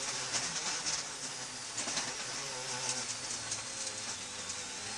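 Rally car's engine running at a fairly steady pitch under way, heard from inside the cabin, with a hiss of tyre and road noise.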